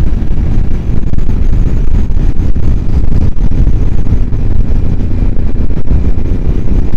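Heavy wind noise buffeting a helmet microphone on a motorcycle at speed, with the bike's engine running steadily underneath.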